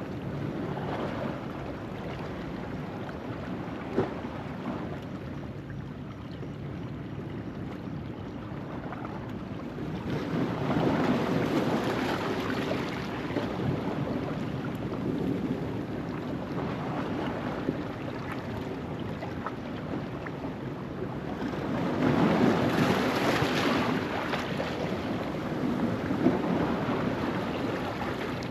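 Ocean waves washing over a rocky shore at low tide, a steady rush of surf that swells twice, about ten seconds in and again about twenty-two seconds in.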